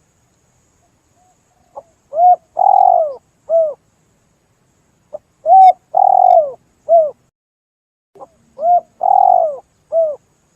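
Spotted dove (tekukur) calling: three repeated cooing phrases about three seconds apart, each a soft short note followed by three coos, the middle coo longest and loudest.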